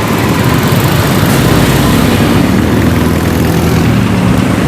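A loud, steady engine running close by, with low hum and a hiss over it, rising slightly in the first second.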